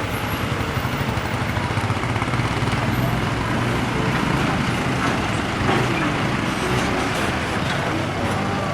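Steady road traffic with the low hum of large vehicle engines running.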